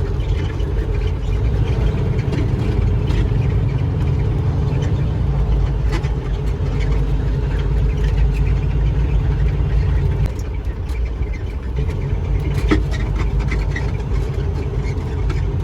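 Semi truck's diesel engine running, heard from inside the cab as a steady low rumble that drops a little about ten seconds in.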